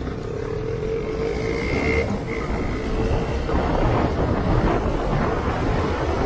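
Yamaha R15 V3's single-cylinder engine pulling hard under acceleration, its note climbing and briefly breaking at an upshift about two seconds in. From about halfway through, wind noise on the microphone builds as the speed rises towards 50 km/h.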